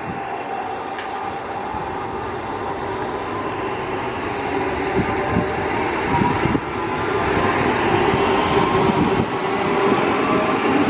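A train running on the rails, growing steadily louder as it draws near, with rumble and wheel clatter.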